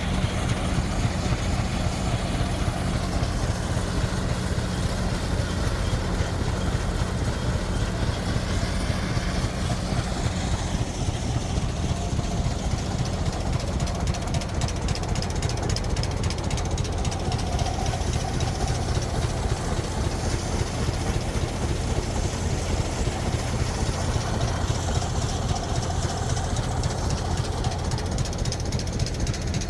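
An engine running at a steady speed with a rapid, even beat.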